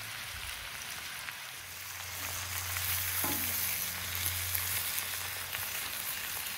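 Tomatoes, capsicum and zucchini sizzling in a cast iron skillet over a barbecue fire, stirred with a wooden spatula. The sizzle grows louder about two seconds in.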